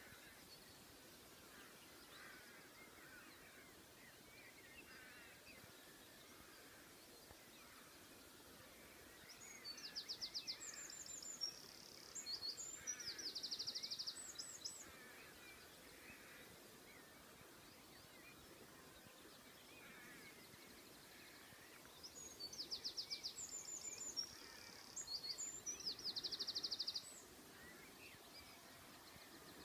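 A songbird sings twice, two high-pitched songs of rapid trills and chirps, each about five seconds long and about twelve seconds apart. Faint chirping of other birds runs underneath.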